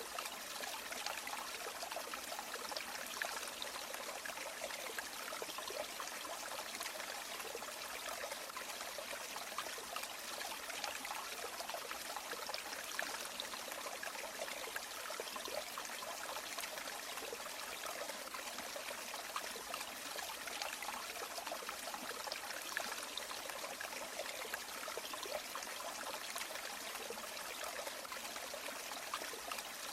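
Flowing river water: a steady rush and trickle with small splashing flickers and no change in level.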